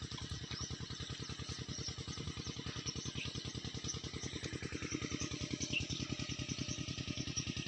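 Irrigation water-pump engine running steadily with a rapid, even chugging beat. Faint bird chirps are heard over it.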